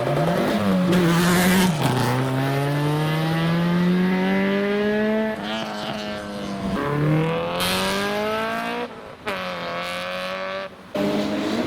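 Toyota Chaser accelerating hard away, its engine revving up through the gears: the pitch climbs steadily, then drops at each gear change, about 2 s and about 7 s in.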